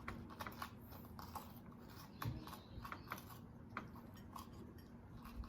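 Faint scattered clicks and small taps of food and utensils being handled, over a faint steady hum.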